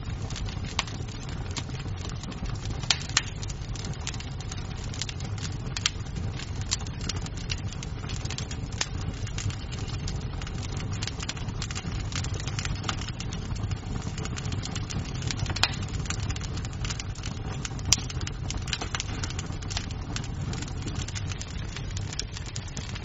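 Wood fire crackling in a fireplace: a steady low rumble of flames under constant small snaps, with a few louder pops.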